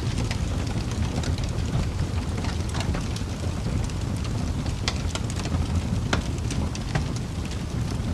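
Wood fire burning in a fireplace: many sharp crackles and pops at irregular intervals over a steady low rumble of flames.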